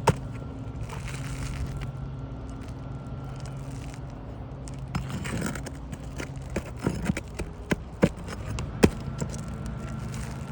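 Scraping and a few sharp knocks of tools working on asphalt roof shingles, mostly in the second half, over a steady low hum.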